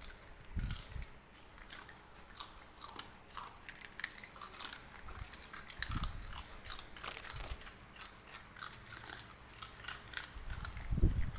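Puppies chewing and biting rice cakes, with quick irregular wet smacks and clicks of their jaws and the odd low bump.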